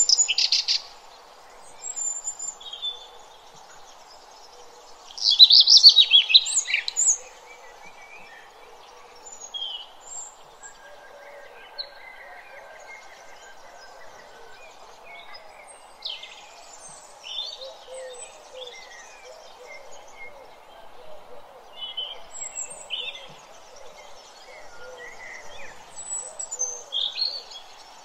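Birds chirping: scattered short, high calls all through, loudest in a burst near the start and another about five seconds in, over a steady hiss.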